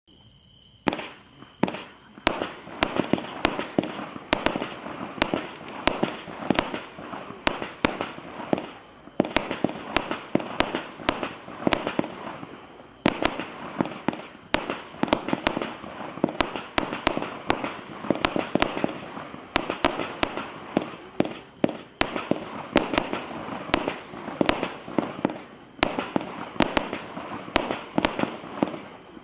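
Fireworks going off in a continuous barrage, starting about a second in: sharp bangs come about two a second over a steady crackle.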